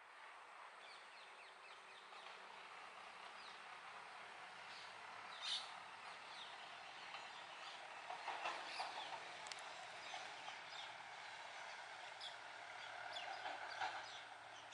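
Faint outdoor ambience: a steady hiss with many short bird chirps scattered through it, a louder brief call about five and a half seconds in and a run of calls around eight to nine seconds.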